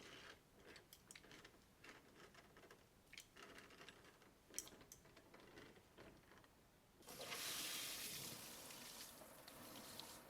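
Bathroom cleaning: light clicks and handling noises, then about seven seconds in a rush of running or spraying water for about three seconds, easing off a little.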